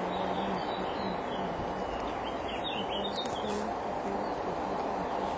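A small bird chirps a quick run of short notes about halfway through, over a steady background hiss.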